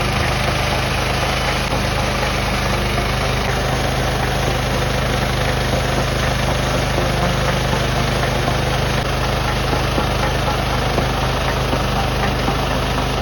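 Small gasoline engine running steadily at a constant speed, with no change in pitch or load.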